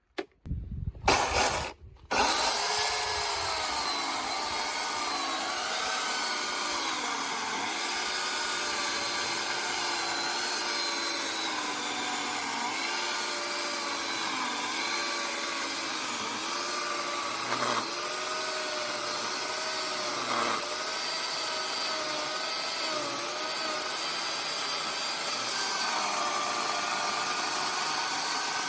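Chainsaw cutting oak logs for firewood. A few loud, uneven bursts come in the first two seconds, then it runs steadily, its pitch dipping and recovering every second or two as the chain bites into the wood.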